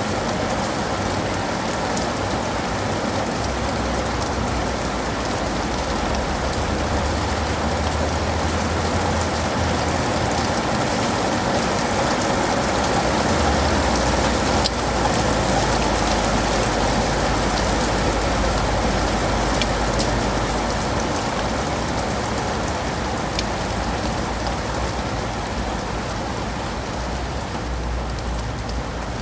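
Steady rain falling on leaves and pavement, with single drops ticking sharply now and then over a low rumble.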